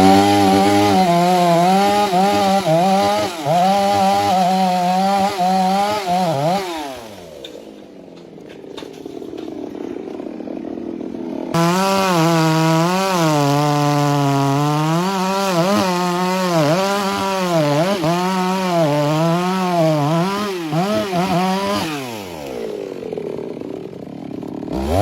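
Two-stroke chainsaw at full throttle cutting wood, its pitch wavering under the load. It drops to idle about six to seven seconds in. It is revved hard again for about ten seconds from just past halfway, then drops back, with a quick sharp rev at the very end.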